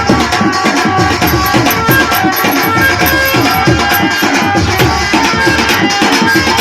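Instrumental passage of an Indian devotional folk song: a hand drum keeps up a fast, steady beat under a held melodic line.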